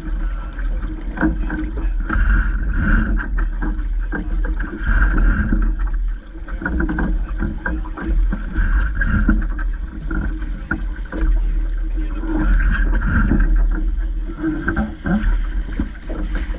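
Water rushing and slapping against the hull of a Vaucluse Junior sailing dinghy under way, with many short knocks and wind rumbling on the microphone.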